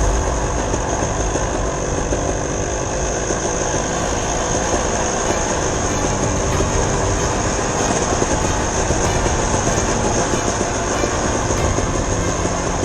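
Dirt bike engine running steadily while riding.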